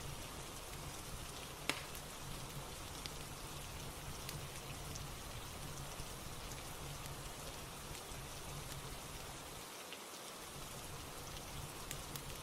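Steady rain ambience, with a few sharp crackles and pops from a fireplace, the loudest about two seconds in.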